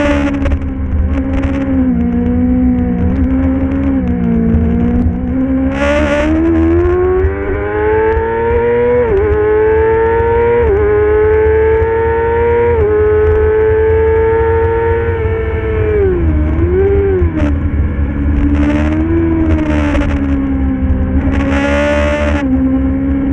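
Racing motorcycle engine heard from on board over heavy wind rumble, accelerating up through the gears with quick upshifts about nine, eleven and thirteen seconds in. It then shuts off and drops revs with downshifts before settling at lower revs. Short hissing bursts come several times.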